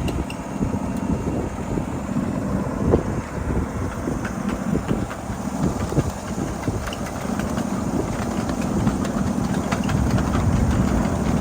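7.5-inch gauge ride-on miniature freight train rolling along the track: a steady low rumble of wheels on rail with frequent irregular clicks and clacks.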